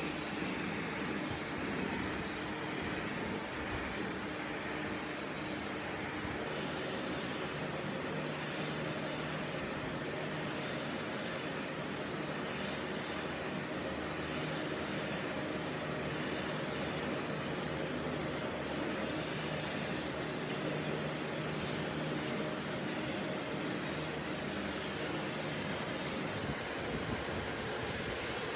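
A power tool running steadily, a whirring hiss with a low hum under it that swells and fades slightly about every second and a half.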